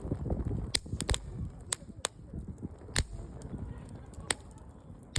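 Wood campfire crackling, with sharp irregular pops and snaps over a low rumbling crackle; the loudest pops come about three seconds in and again a little past four seconds.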